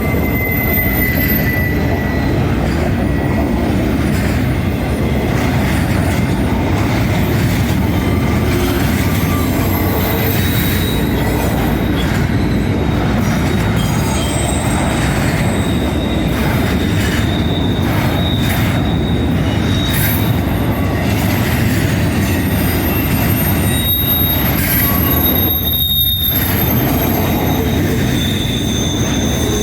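Norfolk Southern freight train's cars rolling past in a steady, loud rumble, with the wheels squealing against the rails in thin high tones that come and go.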